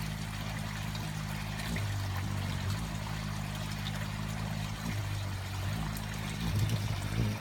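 Hummingbirds' wings humming as they hover and feed, a low buzzing hum that fades in and out and shifts a little in pitch as birds come and go, over a steady hiss.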